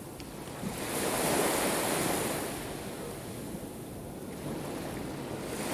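Black Sea surf washing onto the shore, swelling about a second in and again near the end, with some wind noise on the microphone.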